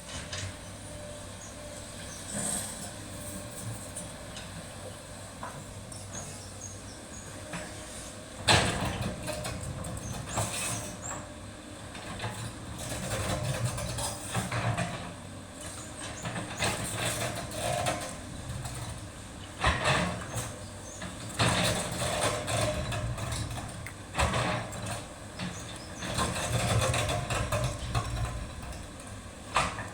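SANY excavator's diesel engine running steadily. From about eight seconds in it works harder, with repeated loud bursts of noise every second or two as the machine moves.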